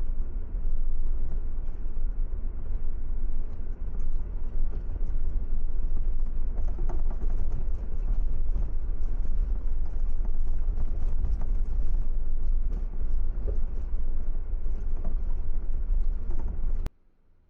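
Steady low rumble of a car driving, road and wind noise, that cuts off abruptly near the end.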